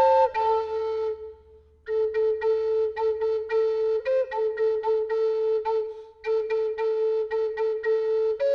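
Native American drone flute in the key of A playing a melody of short, repeated tongued notes over a steady held drone tone. The playing breaks off briefly about a second in and again near six seconds.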